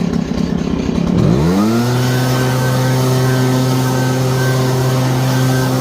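Gas leaf blower engine running rough at low throttle, then revving up about a second and a half in and holding steady at full throttle.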